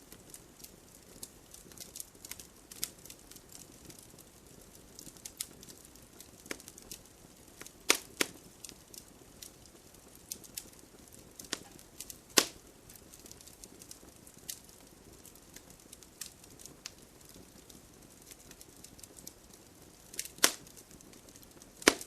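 Wood fire crackling: irregular sharp pops and snaps over a low steady hiss of burning, with a few louder pops scattered through.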